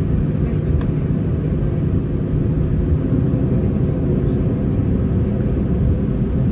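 Steady low rumble in the cabin of an Airbus A319 on the ground after landing, its CFM56 engines at idle as it nears the stand.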